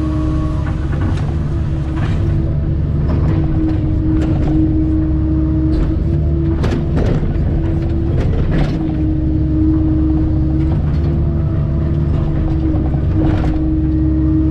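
Kobelco SK160 excavator running hard under load, with a steady whine that cuts in and out and scattered knocks and cracks as it works a rooted stump out of shale.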